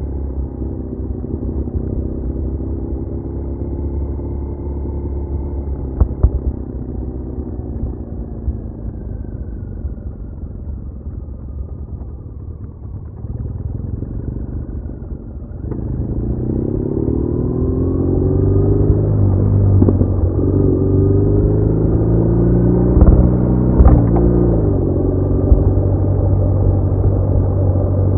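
BMW R1200R boxer-twin engine under way on the road. It runs steadily and eases off for a while, then from about halfway it accelerates, its pitch climbing gear after gear. There are a few sharp knocks, one early and a couple near the end.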